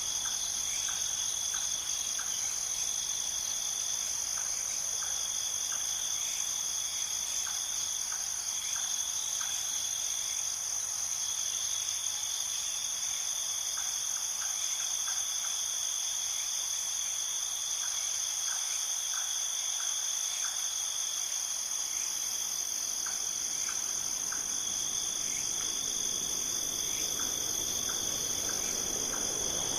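A steady chorus of trilling insects, crickets by their sound, with one high continuous trill and a second, lower trill that drops out and comes back a few times. Short chirps come in little runs of three to five underneath.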